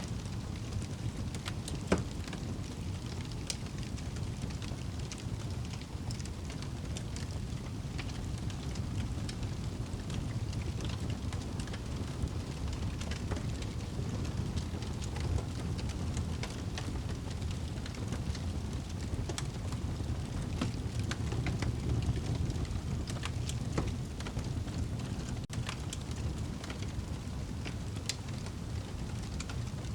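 Wood fire burning in a fireplace: a steady low rush of flames with scattered sharp crackles, one louder pop about two seconds in.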